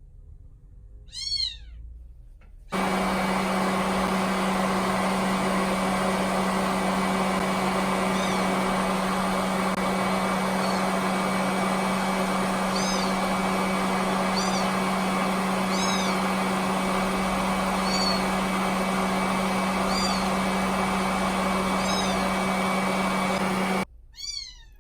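A kitten mewing in high, arching cries, once about a second in and then every second or two over a loud, steady noise with a low hum. The noise starts suddenly a few seconds in and cuts off suddenly near the end.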